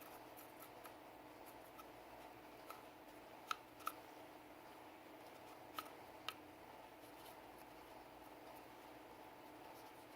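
Faint handling sounds from cleaning a Sig Sauer P320 pistol: scattered light ticks, with two pairs of sharp clicks about half a second apart in the middle, over a steady faint hum.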